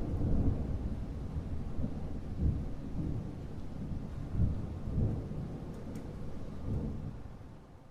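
Thunder rolling in a long low rumble that swells and eases every second or so, with rain underneath, dying away near the end.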